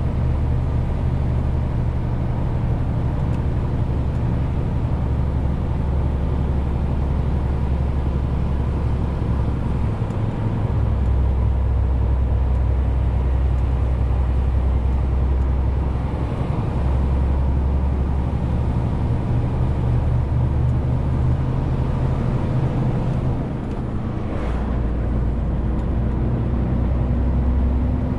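Renault T520 truck's diesel engine running steadily under a 40-tonne load, a deep drone whose level shifts a few times. About 23 seconds in it briefly drops away, with a short sharp sound just after, and near the end a tone slowly rises in pitch.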